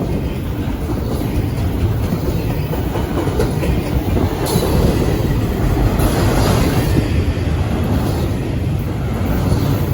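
CSX freight train rolling past at close range: a steady heavy rumble with the wheels clacking over the rail joints.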